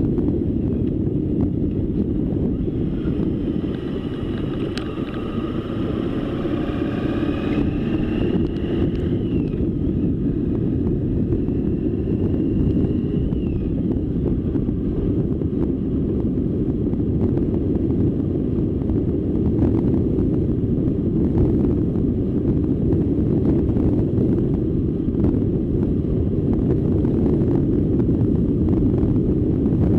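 Wind buffeting the microphone during a ride, a steady dense rumble. From about 3 to 14 seconds in, a faint whine rises and falls in pitch under it.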